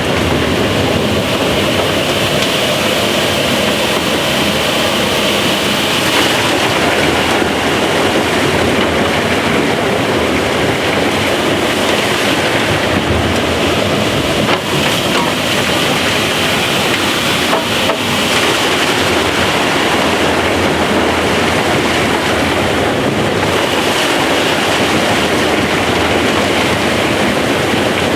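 Loud, steady roar of an opal miner's blower, the truck-driven vacuum line that sucks dug opal dirt up the mine shaft, running flat out.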